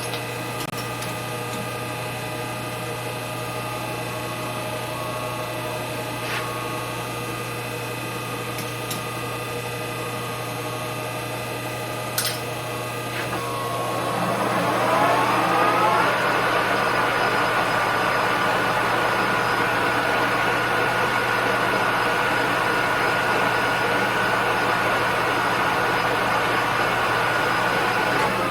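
Lathe spindle starting up: a click, then a whine that rises in pitch over about two seconds as it comes up to speed and then holds steady.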